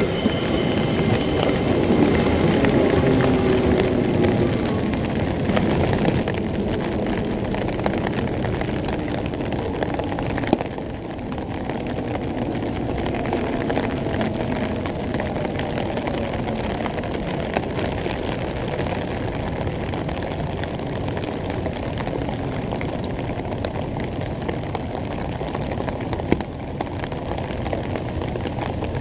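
Series 205 electric commuter train pulling away, its whine falling in pitch and fading over the first few seconds. After that comes a steady hiss with a faint drone.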